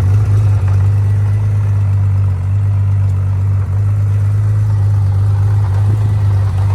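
Honda CBX1000Z's air-cooled inline-six engine idling steadily through a non-original exhaust.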